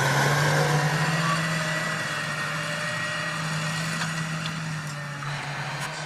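John Deere 8360R tractor's six-cylinder diesel engine running with a steady hum, growing slowly fainter.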